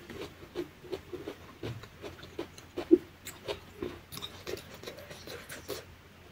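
A person chewing a mouthful of food with the mouth closed, soft chewing sounds about three times a second.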